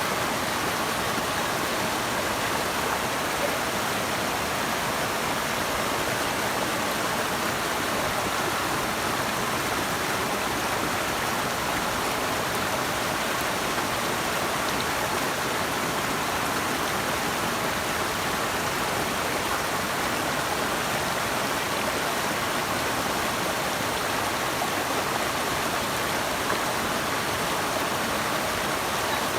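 Running water rushing steadily over rocks, an even unbroken wash with no changes.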